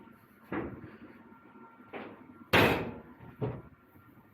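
A few sudden knocks and thumps, the loudest about two and a half seconds in, from someone moving about in a cramped ship's engine room, over a faint steady hum.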